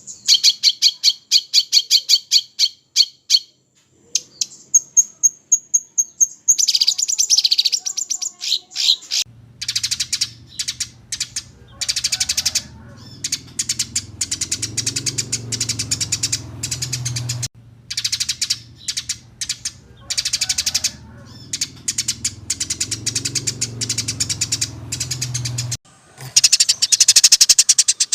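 Small songbirds, including a kapas tembak, singing long, harsh, rapid-fire trills: fast runs of sharp high chirps repeating many times a second, broken by short pauses. A low steady hum sits under the song through the middle.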